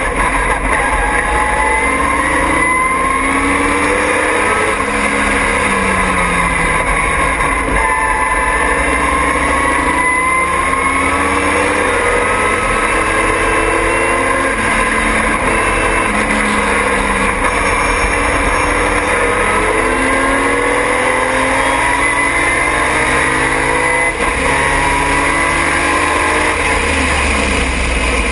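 Triumph TR6 race car's straight-six engine running hard at racing speed, its revs repeatedly climbing for a few seconds and then dropping as it shifts and lifts.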